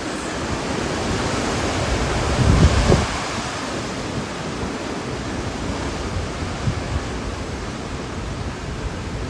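Hurricane wind blowing hard as a steady rushing noise, with gusts buffeting the microphone. The strongest gust comes about two and a half to three seconds in.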